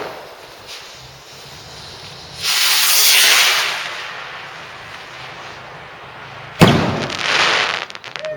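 Garden fireworks: a long whooshing hiss swells about two and a half seconds in and fades over a second and a half. A sharp bang comes near the end, followed by about a second of hissing crackle.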